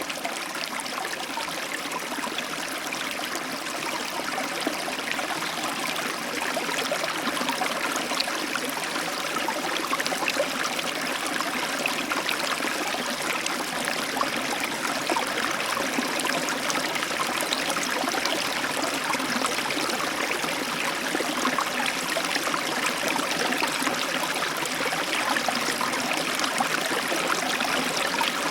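Heavy tropical downpour: a dense, steady rush of rain with many small drop hits, growing a little louder over the first ten seconds or so.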